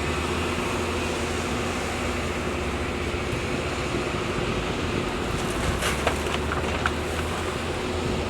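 Diesel engine of heavy earthmoving machinery running steadily, with a few sharp knocks about six to seven seconds in.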